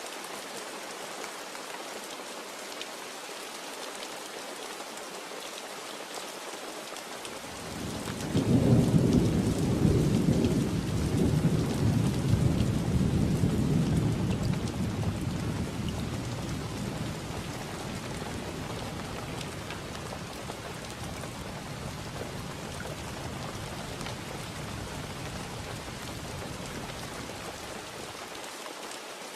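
Steady rain falling, with a long roll of thunder that breaks in about seven seconds in, is loudest over the next several seconds, then rumbles away slowly until near the end.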